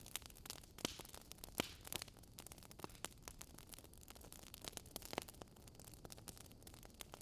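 Fire crackling: irregular sharp snaps and pops, a few louder than the rest, over a faint steady low noise.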